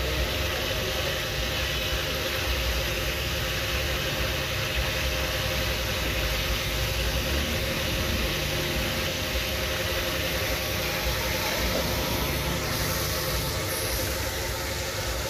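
Chapli kababs deep-frying in a wide pan of bubbling oil: a steady sizzle over a continuous low rumble and a constant hum.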